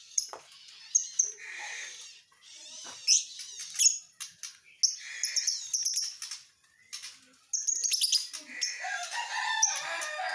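Lovebird chattering: rapid, sharp high chirps and rasping trills in quick, irregular runs, turning into a denser, busier burst of chatter in the last few seconds.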